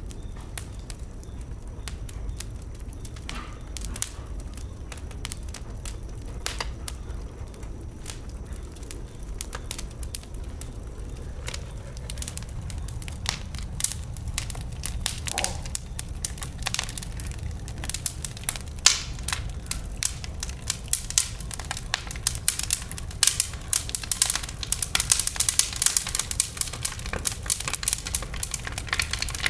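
Wood fire burning, its logs crackling and popping over a low rumble of flames; the pops are sparse at first and come thick and fast in the second half.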